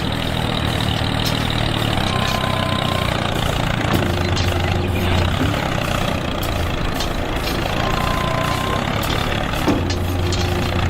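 Engine running steadily at idle with a low, even hum, with faint steady tones fading in and out every few seconds.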